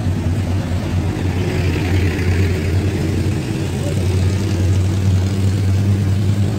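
A motor vehicle engine idling steadily close by, a low, even hum, while traffic including trucks and motorbikes passes on the road.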